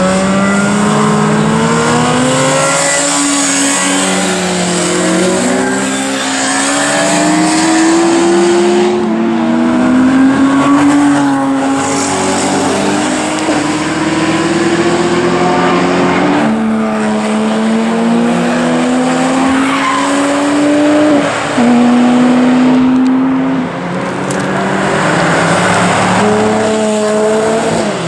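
Motorcycle and sports-car engines at full throttle on a race track, one after another, their pitch climbing as they accelerate and dropping sharply at each upshift.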